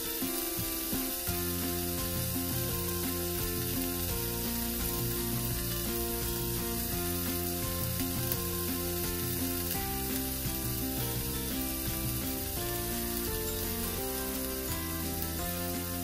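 Chicken, onion and garlic sizzling steadily in hot olive oil in a frying pan as the water from the chicken cooks off, with background music underneath.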